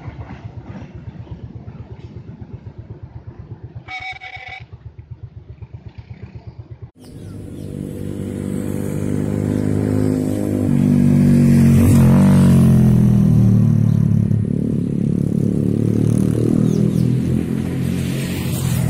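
Freight train flat wagons rolling past, their wheels clicking over the rail joints in a quick steady rhythm, with a short beep about four seconds in. After a sudden cut, a motor vehicle engine runs close and loud, its pitch rising and then falling away.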